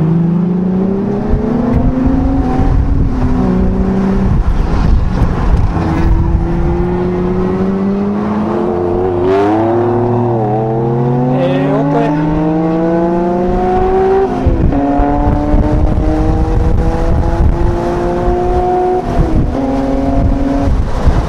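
Honda NSX's V6 engine heard from inside the cabin, pulling hard and climbing in pitch, with the pitch dropping back at several gear changes. About ten seconds in the note wavers and dips as the car slows, then climbs again.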